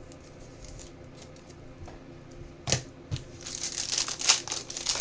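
Trading cards and their plastic packaging being handled: faint light ticks, a sharp click a little under three seconds in, then steady plastic crinkling and rustling.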